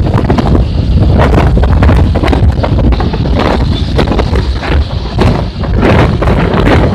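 Strong gusting wind buffeting the microphone: a loud, rough rumble broken by repeated sudden thumps.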